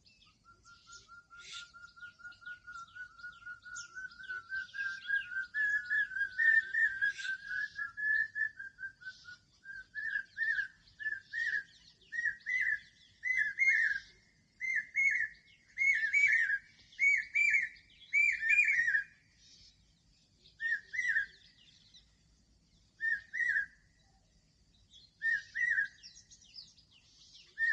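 A bird's long call of clear whistled notes. It starts as a fast run that slowly rises in pitch and grows louder, then about nine seconds in breaks into separate loud doubled notes. Near the end it slows to single notes a couple of seconds apart, with fainter high chirps of other birds behind it.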